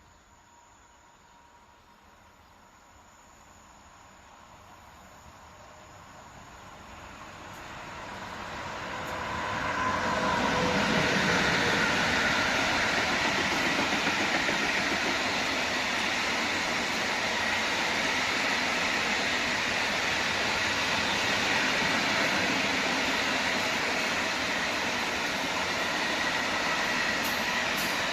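A train hauled by a Vectron locomotive approaching and passing, its rolling noise growing steadily over about ten seconds and then staying loud and even as the train goes by.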